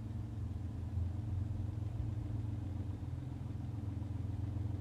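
Mitsubishi 3000 V6 engine idling steadily, with an even low hum.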